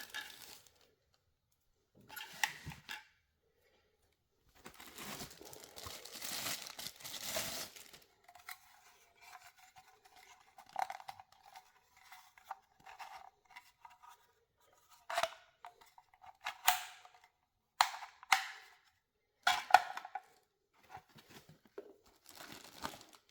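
Plastic packaging crinkling and tearing in bursts, with scattered sharp clicks and taps, as parts are unwrapped from a box.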